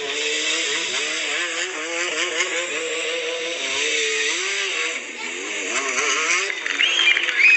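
Stunt motorcycle engine revving up and down, its pitch wavering constantly as the rider works the throttle through freestyle tricks. Near the end the engine note drops away and a few high squeals that rise and fall come in.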